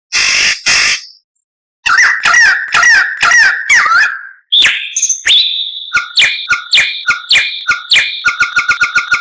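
White-rumped shama song: two harsh rasping calls, a brief pause, then a quick series of chirped whistles and sharp repeated notes, breaking into a fast even trill near the end.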